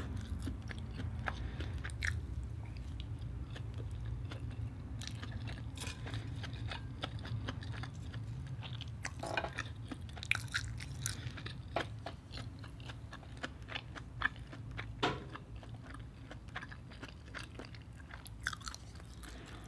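Close-up chewing of a mouthful of Korean spicy fried rice, with scattered small clicks and crunches.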